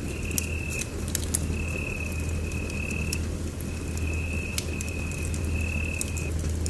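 Wood fire crackling in a fireplace, with irregular sharp pops over a steady low rumble. A high, thin steady tone keeps recurring in stretches of about a second and a half with short breaks.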